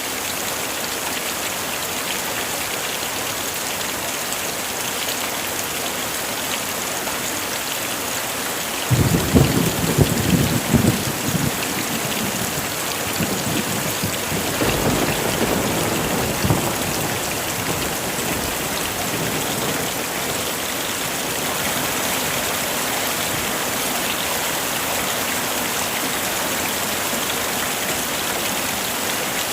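Heavy rain falling steadily. About nine seconds in, thunder cracks and rumbles for a couple of seconds, and a second, softer roll of thunder swells a few seconds later.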